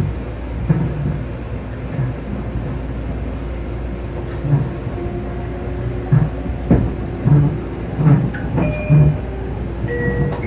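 Long Island Rail Road electric commuter train running, heard from inside the car: a steady rumble of wheels on rail with a string of short, irregular thumps from the wheels crossing rail joints, and a few brief faint tones near the end.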